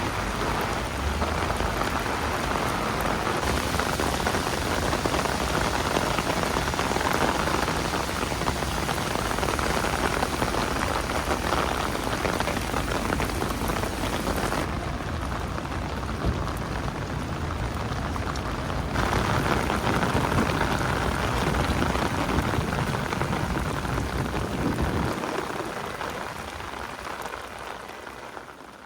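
Steady, loud rainstorm: a dense hiss of rain. About halfway through it turns duller for a few seconds, and it fades out near the end.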